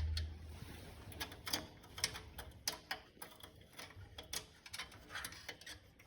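Irregular light clicks and ticks, several a second, from hand tools and small metal parts being handled.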